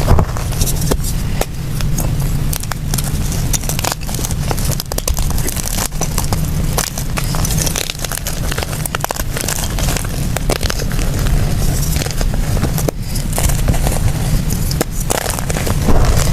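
Blocks of gym chalk being crushed and crumbled, a dense, irregular run of small crackles and crunches over a steady low rumble.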